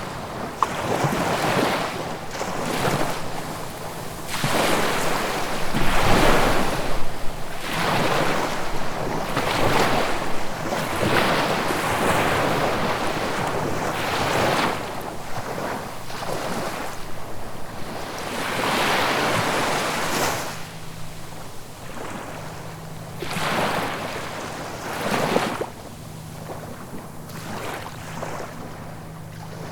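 Sea waves breaking and washing onto the shore one after another, each swell of surf rising and falling over a second or two, with a calmer stretch near the end.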